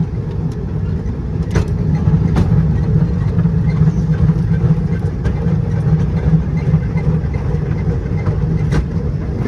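Steady low rumble of a moving rail vehicle heard from aboard, with a few faint clicks.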